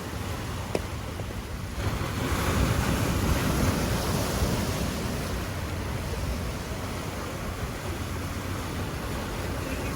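Ocean surf washing against the shore, with wind rumbling on the microphone; the surf swells about two seconds in and slowly eases off.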